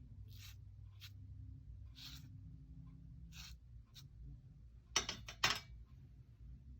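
Dry paintbrush scratching across watercolour paper in short strokes, about one a second. Two louder sharp clicks come about five seconds in.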